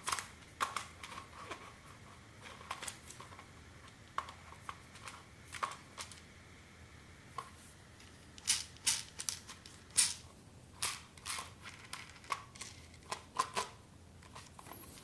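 Plastic vacuum-cleaner attachments and their packaging being handled: irregular small clicks, taps and rustles, busiest in the second half.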